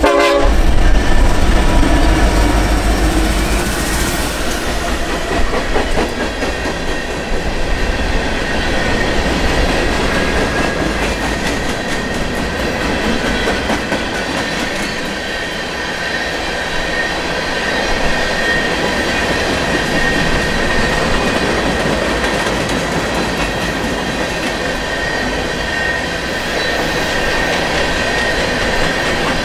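Freight train passing: the diesel locomotives' engines are loudest as they go by at the start, then a long steady run of loaded ballast cars rolling past, wheels clattering over the rail joints, with a thin high wheel squeal running along.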